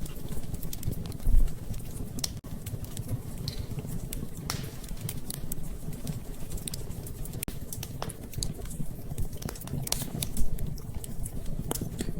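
Wood fire crackling in a fireplace: irregular sharp crackles and pops over a steady low rumble, with a louder pop about a second in and another near the end.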